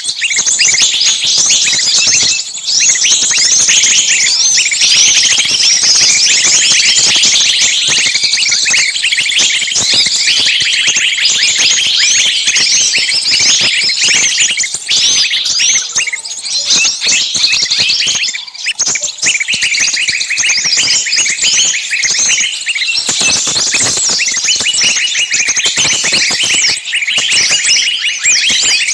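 Many small birds chirping at once in a dense, unbroken chorus of short, high overlapping calls.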